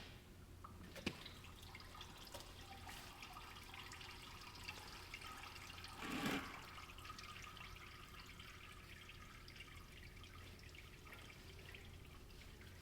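Engine oil trickling and dripping steadily into a drain pan during an oil change. A short knock comes about a second in and a louder brief clatter about six seconds in.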